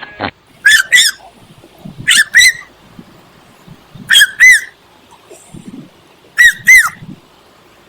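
A duck's squawky quacks in quick pairs, two calls a third of a second apart, repeated four times about every two seconds. Each call is high and rises then falls in pitch.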